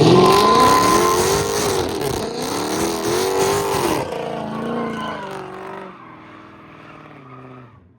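Muscle car engine revving hard with tyres squealing, loudest over the first four seconds, then fading as the car pulls away, and cutting off abruptly at the end.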